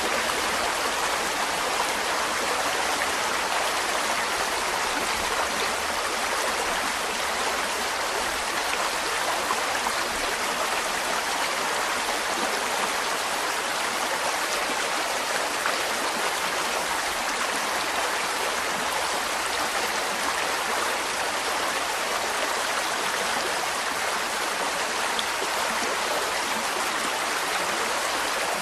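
Mountain stream flowing over rocks, a steady rushing and babbling of water.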